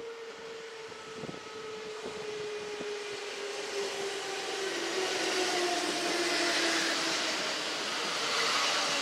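Kintetsu electric train drawing in, its motor whine falling slowly in pitch as it slows, under a growing hiss of wheels on rail that gets louder as it comes closer.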